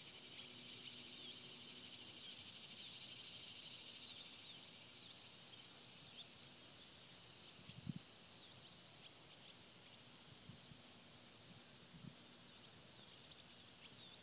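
Faint field ambience: many short, high bird chirps and twitters over a steady high hiss, with a soft low bump about eight seconds in.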